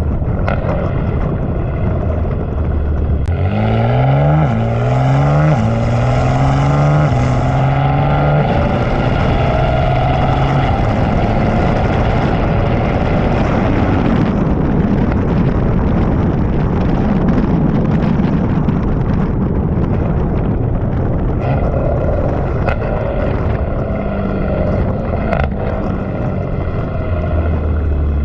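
BMW G80 M3 Competition's twin-turbo inline-six with catless downpipes and an aftermarket exhaust, accelerating hard: about three seconds in the engine note climbs, drops back at quick upshifts, and climbs again several times. It then settles under a steady rush of wind and tyre noise, with the engine note rising again near the end.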